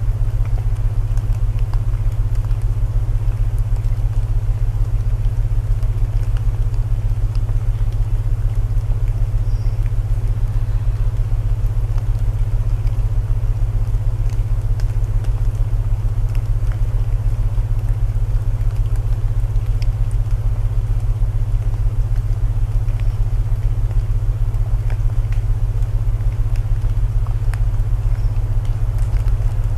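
Layered sleep soundscape: steady low binaural tones over a soft hiss of rain, with scattered faint crackles of burning wood from a fireplace.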